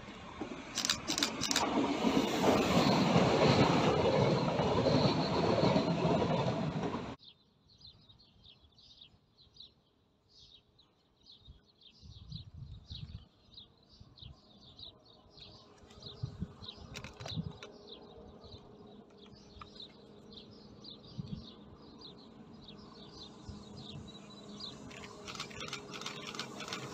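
Passenger train running past on the rails, a loud steady rush that cuts off abruptly about seven seconds in. Birds chirp over a quiet background after that, and near the end the rumble of another approaching train slowly grows louder.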